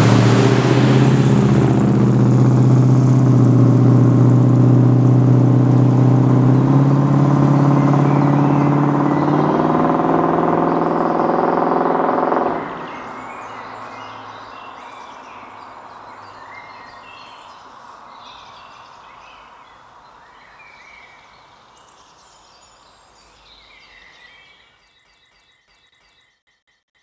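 1972 Dodge Charger's 400 Magnum V8 running through its stock dual exhaust, its pitch rising a little about two-thirds of the way through, then stopping abruptly. Birds chirp faintly as the remaining sound fades out.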